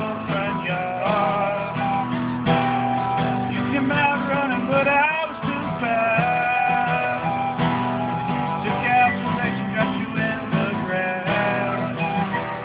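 Instrumental break: a recorder plays a bending, wavering melody over steadily strummed acoustic guitar chords.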